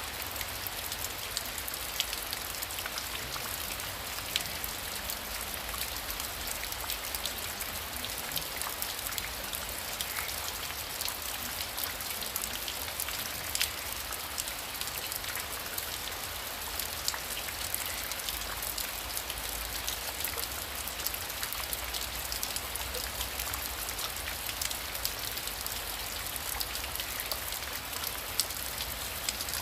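Heavy rain falling steadily, a dense hiss of many fine drop impacts with a low rumble underneath.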